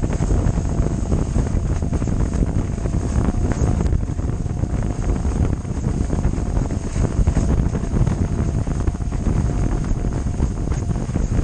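Strong wind buffeting the camera microphone: a continuous rough low rumble that flutters without a break, with a faint thin steady tone underneath.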